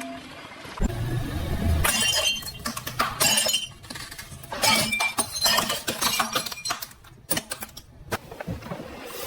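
A car tyre rolling over and crushing brittle objects: a long run of sharp cracks and crunches with glassy clinks as pieces break and scatter, over a low rumble of the car.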